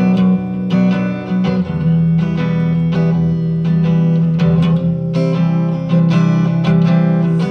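Guitar strumming chords in an instrumental break of a song, with no singing.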